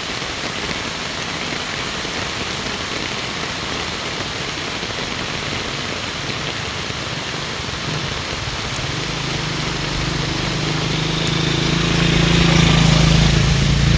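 Heavy rain falling steadily. From about eight seconds in, a vehicle's engine approaches and grows louder toward the end.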